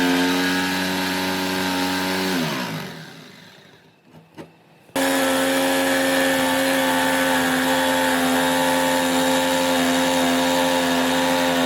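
Electric power tool motor running at a steady pitch, then winding down and stopping a little over two seconds in; after a short quiet with a small click, a motor runs steadily again, starting abruptly about five seconds in.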